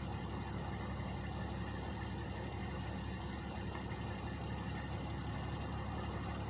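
Truck engines idling, a steady low hum that holds constant with no change in speed.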